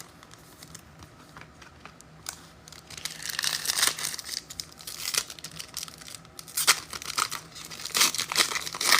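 Foil trading-card pack wrapper being torn open and crinkled in the hands. The crackling starts about three seconds in and comes in bursts.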